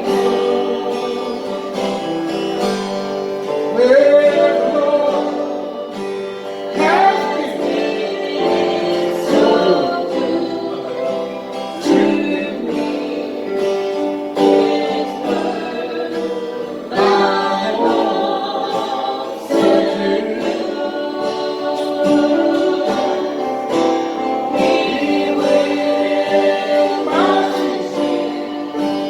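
Group singing of a slow hymn with instrumental accompaniment, long notes held and sliding between pitches.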